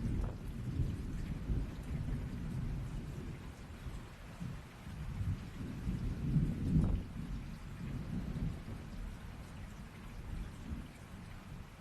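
Thunderstorm: steady rain with a low rolling thunder rumble that swells again about six seconds in and dies away toward the end.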